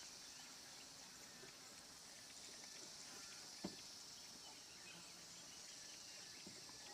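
Faint, steady high-pitched insect chorus, with a single click about three and a half seconds in.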